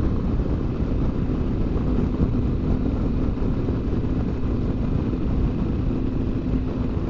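BMW R1200GS Adventure's flat-twin boxer engine running at a steady road speed, under a steady rush of wind and road noise. A faint steady hum comes in about two seconds in.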